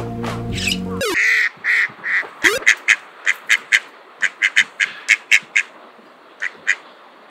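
Eastern spot-billed duck quacking in a long run of short, rhythmic calls that slow and stop near the end. A little music plays for about the first second.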